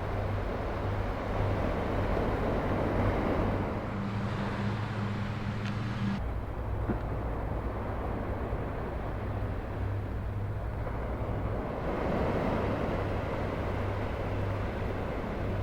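Steady vehicle drone with a low hum and road-like rushing noise, changing abruptly about six seconds in.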